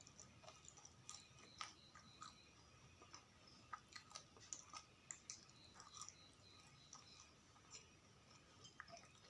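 Faint close-up chewing of sausage and fries: scattered soft wet mouth clicks and smacks at an irregular pace.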